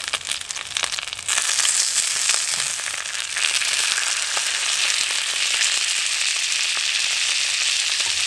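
Spicy sausages frying in oil in a hot pan: a steady sizzle full of small crackles and pops. The sizzle jumps louder about a second in.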